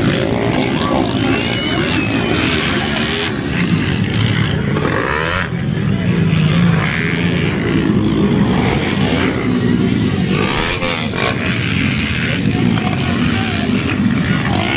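Racing motorcycles' engines revving around the track, with bikes sweeping past about five and a half and eleven seconds in, over background voices.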